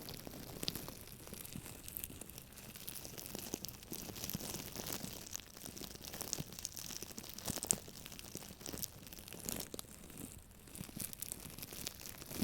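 Close-up scratching and crinkling of an object by hand: a steady run of small clicks and rustles.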